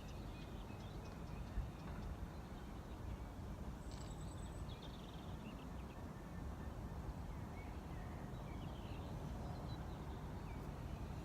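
Faint bird calls, a few short chirps about four seconds in and again later, over a steady low outdoor rumble.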